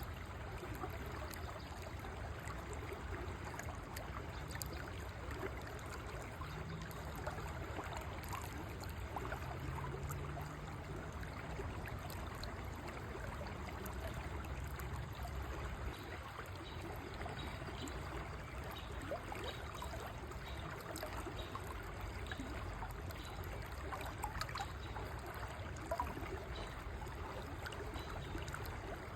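River water flowing steadily over stones, with a constant babbling and trickling.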